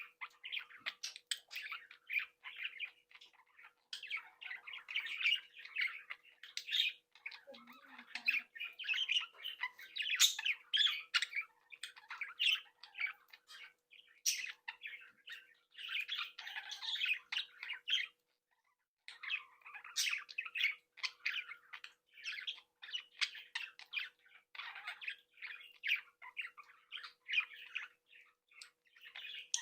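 Young budgerigars chattering, chirping and squawking in a continuous busy stream of short calls and clicks, pausing briefly about two-thirds of the way through. A faint steady hum runs underneath.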